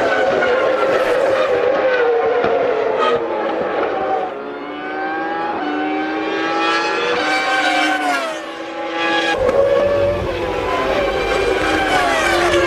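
High-revving Formula One race car engines, their pitch climbing through the gears and dropping away several times as cars pass and brake. From about two-thirds of the way in, a deeper rumble joins the sound.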